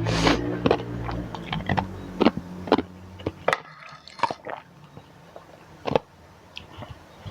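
Close-up eating of instant noodles: chewing and wet mouth sounds, with a run of sharp clicks scattered throughout. A low steady hum stops about three and a half seconds in.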